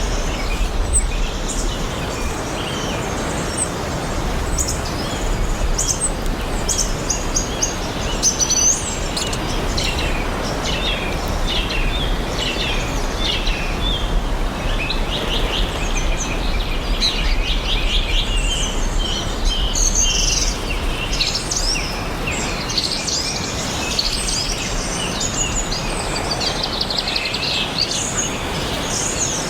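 Several songbirds chirping and singing at once, with many short calls and rapid trills, over a steady background hiss of forest ambience.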